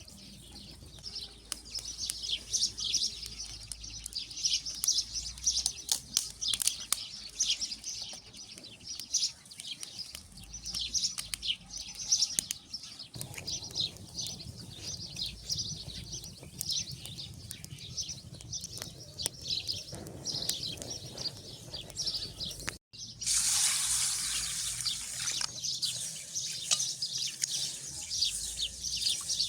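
Small songbirds chirping and twittering continuously in a dense chorus. After a sudden break about three-quarters of the way in, a loud hiss like running or pouring water rises for a few seconds under the birdsong.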